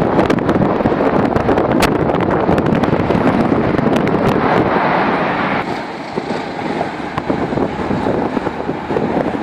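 Wind and road noise of a car driving along a highway, with wind buffeting the microphone and scattered clicks; the noise eases somewhat about six seconds in.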